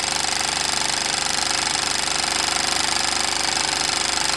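Cyldon toy horizontal steam engine running on live steam with a rapid, even beat, which the owner calls really smooth.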